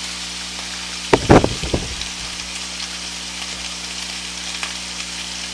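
Squash, onion and garlic sizzling steadily in olive oil in a steel pot, with a brief clatter of a few knocks about a second in.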